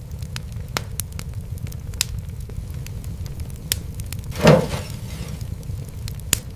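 Fireplace fire crackling: a steady low rumble with scattered sharp pops, and one louder, longer pop about four and a half seconds in.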